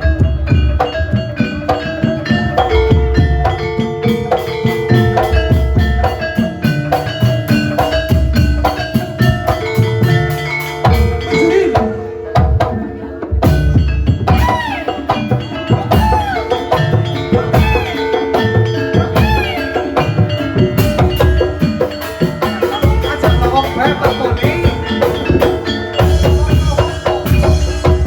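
Traditional Javanese ebeg accompaniment music: a melody on tuned percussion over a steady run of low hand-drum strokes and sharp clacks.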